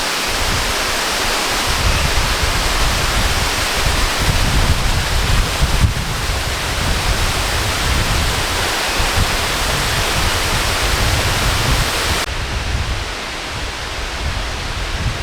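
Steady rush of a waterfall, with wind buffeting the microphone in gusts. The hiss becomes duller about twelve seconds in.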